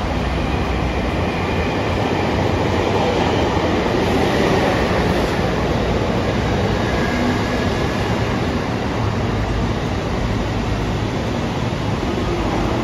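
A train running past on the line, a steady noise that swells a little midway through.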